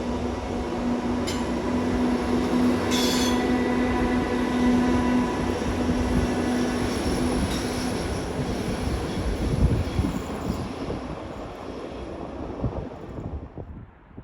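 A train running past at speed, a steady rumble with a low hum and brief high-pitched squeals about one and three seconds in, dying away near the end.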